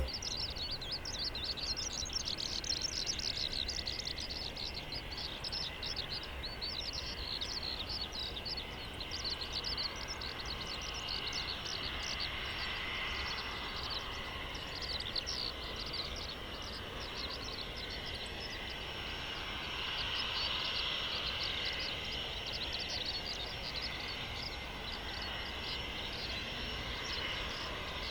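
Outdoor ambience of many quick, dense chirps from small animals, over the faint steady whine of a Cessna 510 Citation Mustang's twin turbofan engines as it taxis.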